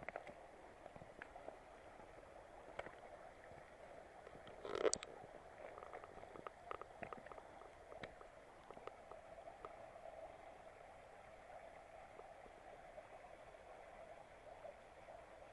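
Mountain stream running over a rocky bed, a faint steady babble, with scattered light clicks and one louder brief noise about five seconds in.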